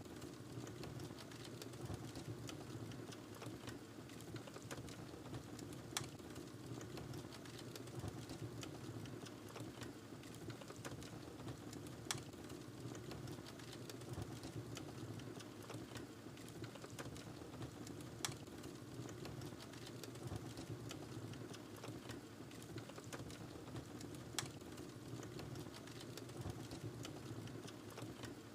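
Wood fire burning in a fireplace: a steady low rush of flames with constant small crackles and a sharper pop about every six seconds.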